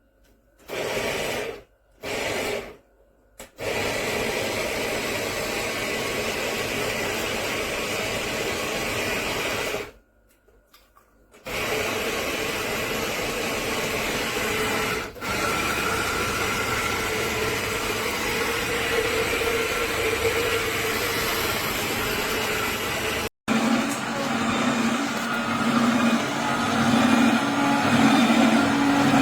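Electric juicer running, its motor and the produce being processed making a steady whirring noise that starts and stops several times, with two short bursts at the start and a pause about ten seconds in. After a sudden cut near the end it runs on with a steadier low hum.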